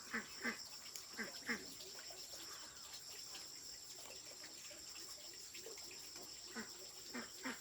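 Steady high-pitched insect chirring, with a few faint short sounds in the first couple of seconds and again near the end.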